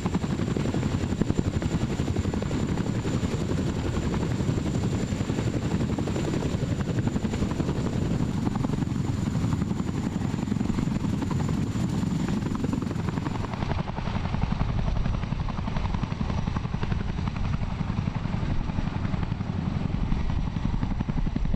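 Helicopter rotors and engine running steadily and loudly, with a fast, even beat. From about fourteen seconds in the sound becomes slightly duller.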